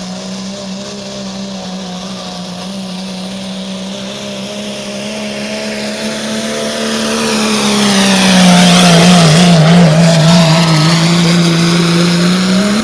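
Diesel pickup truck engine held at full throttle, pulling a sled. It holds a steady note and grows louder from about halfway through, loudest near the end as the truck comes close, with the engine note dipping slightly under the load.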